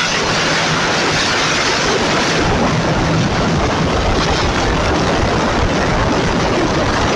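Loud, steady rush of road and wind noise from the 1991 Ford Ranger pickup being driven, with a faint low engine hum beneath it.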